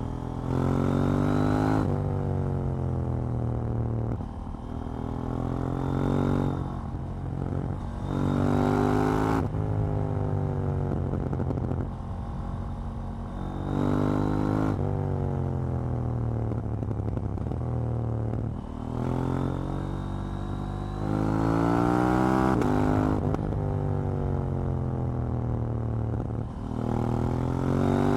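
KTM 790 Duke's parallel-twin engine and exhaust under way: repeated pulls where the engine pitch climbs and then drops sharply at each upshift, with stretches where it falls off slowly as the throttle is closed.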